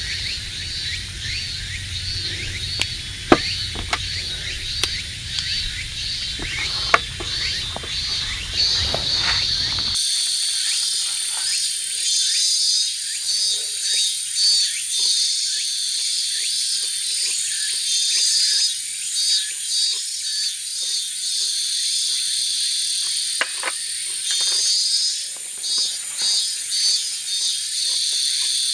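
Outdoor chorus of insects and frogs: a rhythmic high pulsing call repeating about twice a second, with scattered sharp clicks. About ten seconds in the sound changes abruptly, and a steady high-pitched insect trill joins a denser pulsing chorus.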